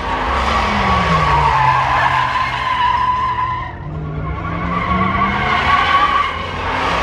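Tyres squealing in a burnout while the vehicle's engine revs. The engine pitch falls over the first two seconds, the squeal eases briefly about four seconds in, then the revs climb again.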